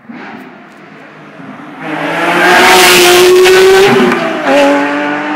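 Porsche 911 GT3 RS flat-six accelerating hard as the car comes past. It swells in from about two seconds in and is loudest for about two seconds, with the engine note climbing slightly. About four seconds in, the pitch drops as the car goes by.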